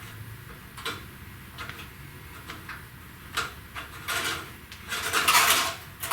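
Hand work on metal and plastic car parts: scattered light clicks and knocks, with a longer scraping rustle about five seconds in.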